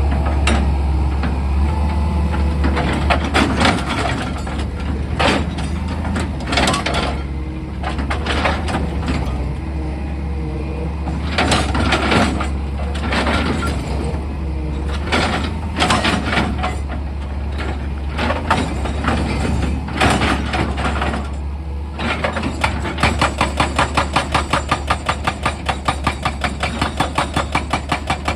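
Excavator engine humming steadily under irregular crunching and scraping of rock. About three-quarters of the way in, a fast, even hammering starts, about five blows a second, as the machine's drill works the rock.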